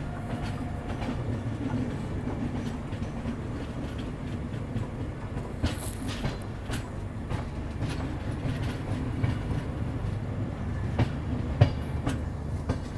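Double-decker express passenger train running along the track: a steady low rumble of the coaches, with the wheels clicking and knocking on the rails now and then and one sharper knock near the end.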